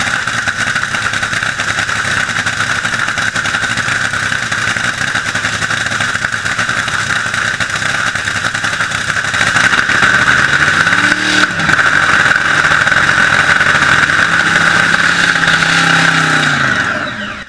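Drag boat engine running loud under a dense rush of noise. About ten seconds in it grows louder and its pitch climbs, holds steady for several seconds, then drops away near the end before cutting off suddenly.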